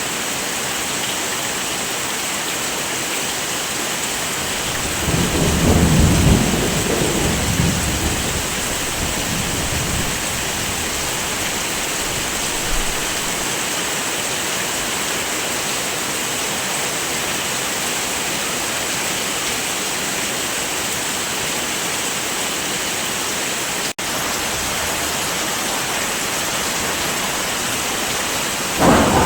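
Steady heavy rain hissing, with a low rumble of thunder about five seconds in that lasts several seconds, and another roll of thunder starting right at the end.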